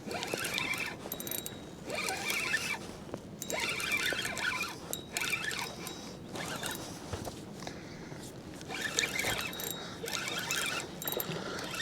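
Fishing reel being cranked in short bursts with pauses, its gears ratcheting, as a hooked catfish is reeled in.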